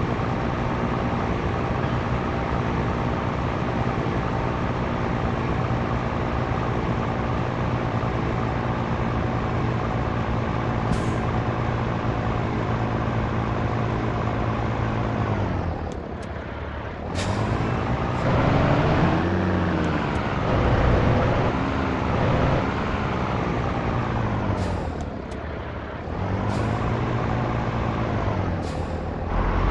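Scania T113 truck's diesel engine running steadily under way, then from about 16 seconds in its revs repeatedly climbing and falling away as gears are changed, with a few short high hisses of air.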